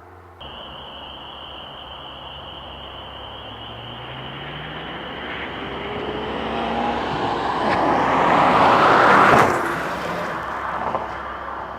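2018 Ford Focus ST's turbocharged 2.0-litre four-cylinder accelerating past in a flyby: the engine note rises in pitch as the car approaches, is loudest as it passes about nine seconds in, then fades as it drives away.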